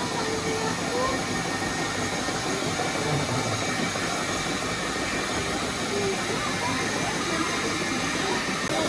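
Milking machine running with a steady hiss over a low hum.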